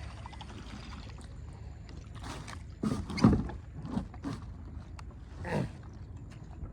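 Kayak on water: a few short splashes and knocks over a steady low background noise, the loudest about three seconds in.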